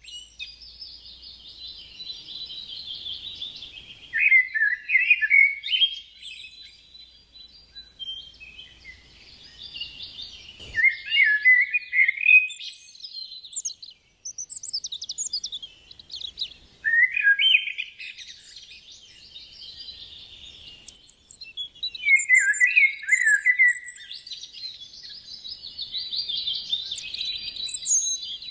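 Songbirds singing: a steady high twittering chorus, with one bird's louder song phrase, sweeping downward, returning about every six seconds.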